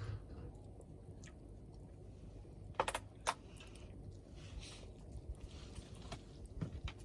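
Campfire crackling: scattered sharp pops over a low steady background, with a quick cluster of louder pops about three seconds in and more near the end.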